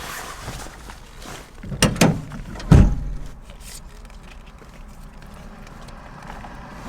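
Two sharp knocks in quick succession about two seconds in, then a heavier, deeper thump just under a second later, over a faint steady background.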